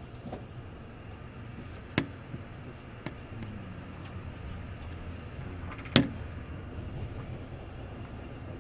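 Passenger train running, heard from inside the carriage: a steady low rumble with two loud, sharp clacks about four seconds apart and a few fainter ticks between.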